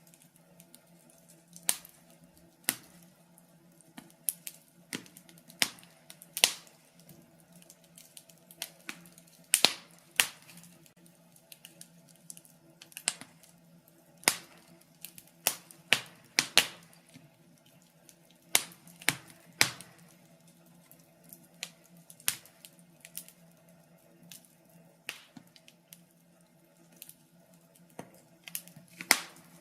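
Wood fire crackling in a fireplace, with sharp, irregular pops and snaps every second or two over a faint steady hum.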